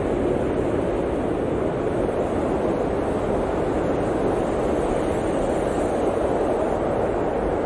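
Blizzard wind blowing steadily, a dense rushing noise with no single gust standing out.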